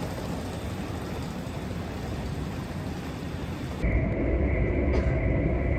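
Train running noise: a steady rumble and hiss that changes abruptly, about four seconds in, to a louder, deeper rumble with a steady high whine.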